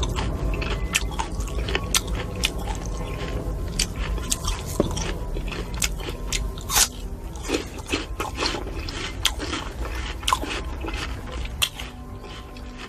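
Close-miked biting and chewing of fruit: crisp crunches and wet chewing, with sharp crackles scattered throughout.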